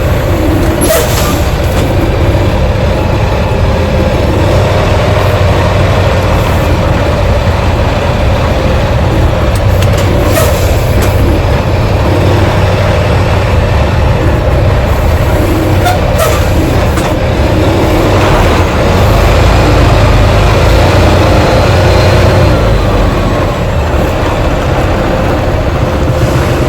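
Steady semi-truck noise with a constant hum and a few short clicks.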